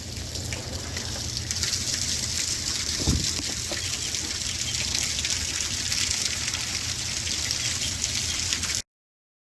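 Rainwater running and splashing off a gutter and rain chain, a steady hiss, with one low thump about three seconds in; it cuts off suddenly near the end.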